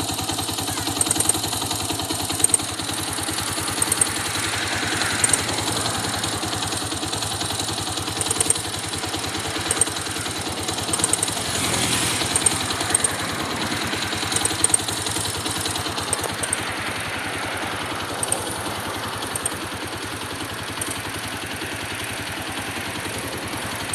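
Honda XR200's single-cylinder four-stroke engine idling, with a sharp tick cutting through at irregular intervals of about one to two seconds. The tick is the unexplained ticking noise that the owner is asking about.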